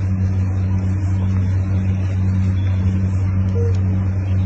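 A steady low mechanical hum with a faint, even throb about twice a second.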